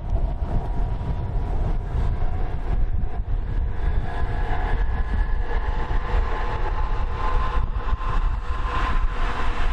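Tobu electric train running past, with steady tones from the train growing louder toward the end. Heavy wind buffets the microphone throughout.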